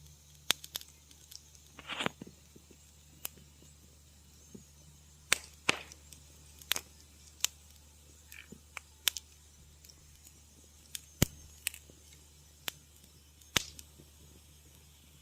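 Wood fire crackling in a fireplace: irregular sharp pops and snaps, with a longer crackling hiss about two seconds in, over a low steady hum.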